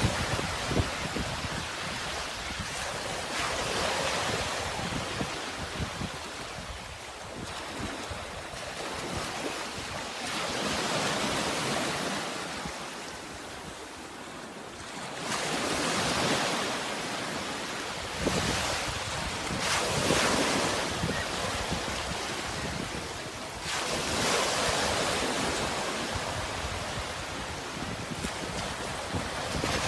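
Sea waves breaking and washing in, the surf swelling and fading in slow surges every few seconds over a steady hiss.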